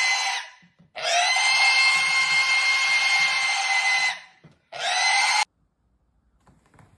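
A small electric motor, like a power tool or hair dryer, running with a steady high whine in three bouts. It cuts off about half a second in, spins up again at about a second and runs for three seconds, then gives one short burst near the five-second mark. Each start rises in pitch as it spins up.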